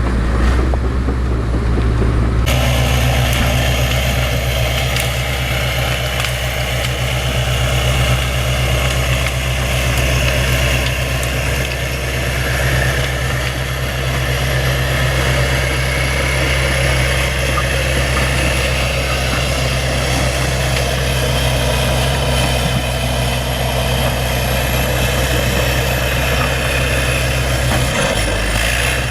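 Bulldozer's diesel engine running steadily. The sound changes abruptly about two seconds in.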